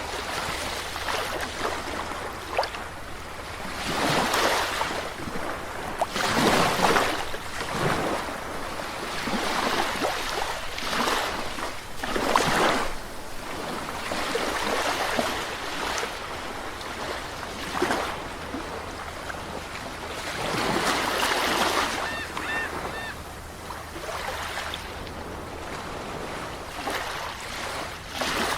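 Calm sea waves breaking and washing onto a shore, swelling and falling in uneven surges every few seconds.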